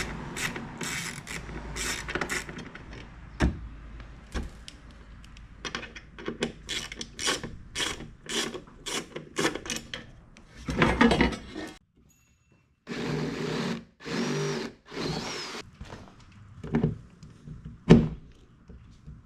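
Hand-tool work on the Jeep Cherokee's door sheet metal: quick sharp clicks for about ten seconds, then a power drill run in three short bursts to oversize a hole for a rivnut, and two sharp knocks near the end.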